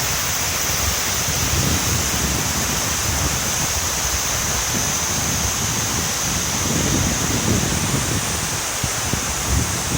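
Swollen Kise River rushing in flood, a steady, even wash of fast water. Wind rumbles on the microphone in gusts, most about three-quarters of the way through.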